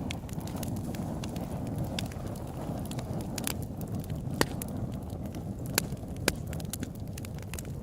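Open-air wood campfire burning: a steady low rush of flames with frequent sharp crackles and pops, and a few louder snaps in the second half.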